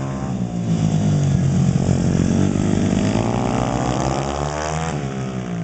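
Two pit bike engines revving hard as the bikes race through a dirt-track turn. The pitch rises and falls with the throttle and drops again near the end.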